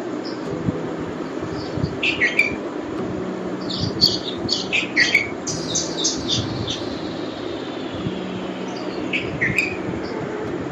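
A songbird's recorded chirps and calls come in short clusters, about 2 seconds in, thickest from about 4 to 7 seconds, and again near the end, over a steady background hiss. The recording stands for the nightingale (bulbul).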